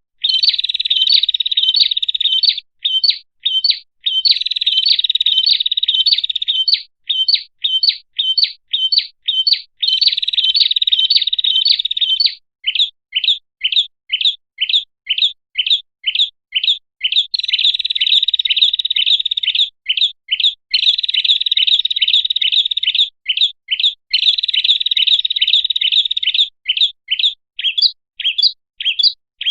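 Prinia (prenjak) song played as a bird-lure call: a string of sharp high chirps, about three a second, broken several times by dense chattering trills two to three seconds long.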